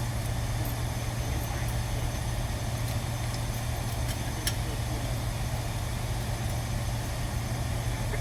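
Steady low mechanical hum of a machine or engine running, with a few faint clicks, one about four and a half seconds in.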